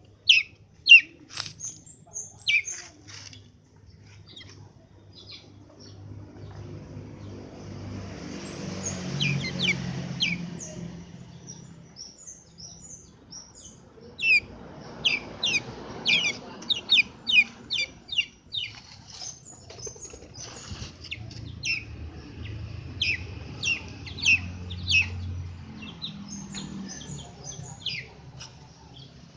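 Small birds chirping in short, sharp, high notes, repeated in quick runs throughout, with two longer stretches of rustling noise about eight and fifteen seconds in.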